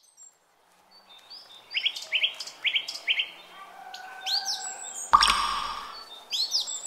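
Birds chirping in quick series of short chirps that fall in pitch, with a brief loud noisy burst about five seconds in.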